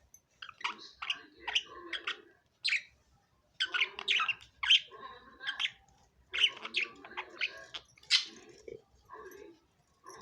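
Budgerigars chirping and chattering: quick runs of short, sharp chirps and squawks in several bursts, with brief pauses between them.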